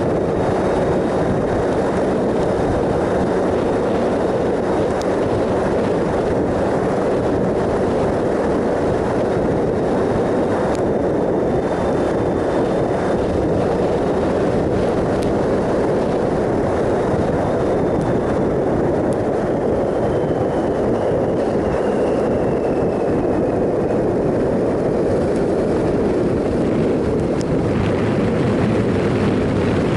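Triumph Sprint ST 1050 three-cylinder motorcycle running at steady road speed, its engine note mixed with a loud, even rush of wind and road noise. The note shifts lower near the end.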